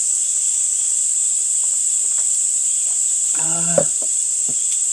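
Steady, high-pitched insect chorus, like crickets, throughout. A short murmured voice comes about three and a half seconds in, with a small click just after it.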